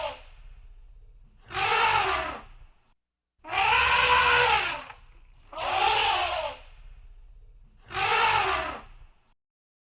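Elephant trumpeting: four brassy calls about two seconds apart, each lasting about a second and rising then falling in pitch.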